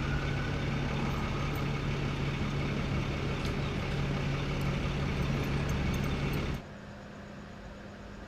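A vehicle engine running steadily with a low hum. It cuts off suddenly about six and a half seconds in, leaving a quieter steady hum.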